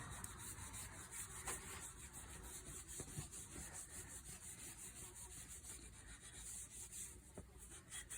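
Faint, uneven rubbing on a sanded wooden hammer shaft as boiled linseed oil is wiped into the wood, with a few light knocks.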